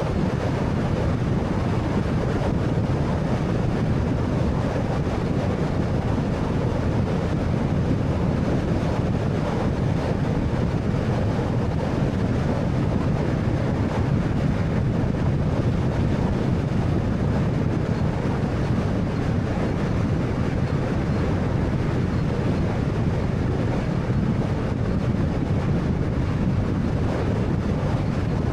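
Steady road noise from a 2013 Honda Fit (1300cc) on the move: a low, even rumble of tyres and engine with no change in pace.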